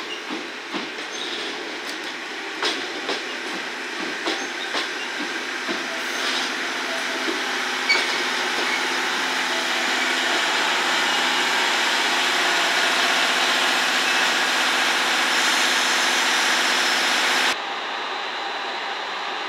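Passenger coaches rolling slowly past on steel rails: wheels clicking over the rail joints at first, then a steady rushing noise that grows louder. Near the end it cuts off suddenly to a quieter steady hum.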